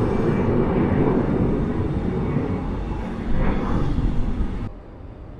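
Jet airliner engines, a loud steady rushing noise that swells briefly, then cuts off abruptly near the end to a much quieter background.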